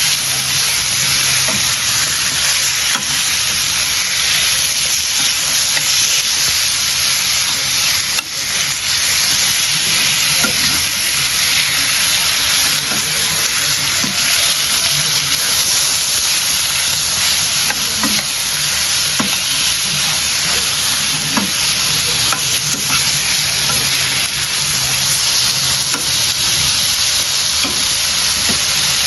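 Chicken pieces frying in hot oil in a cooking pot, a loud, steady sizzle with a brief dip about eight seconds in.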